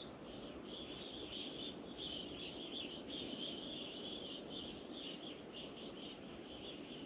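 A whole bunch of small birds chirping together: many short, quick, high chirps overlapping, thickest for a few seconds in the middle.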